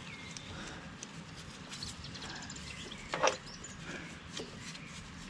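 Hydraulic hoses being handled and fed into place on a backhoe: scattered light knocks, clicks and rubbing, with one louder clunk about three seconds in.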